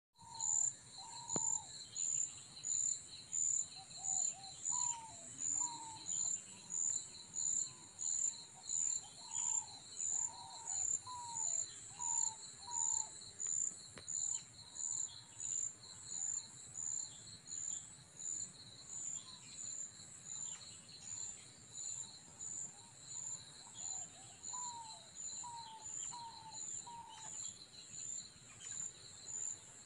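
An insect chirping in a steady, high-pitched pulse, about one and a half to two chirps a second, throughout. A bird calls over it with short whistled notes, a run of them in the first half and another series of four or five near the end.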